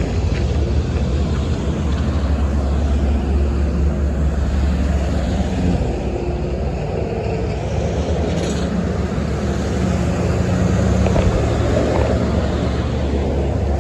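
Road vehicle driving, a steady low engine and road rumble with a faint hum over it.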